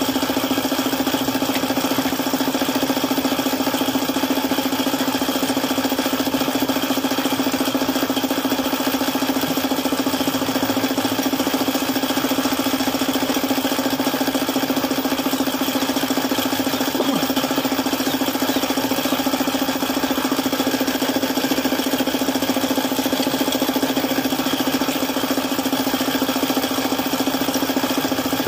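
Suzuki F6A three-cylinder engine idling steadily. The mechanic blames its knocking on an oil pump that has stopped working.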